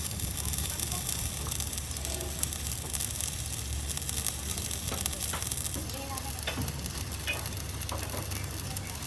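Electric arc welding: a steady crackling sizzle over a low hum, with a few sharper clicks in the second half.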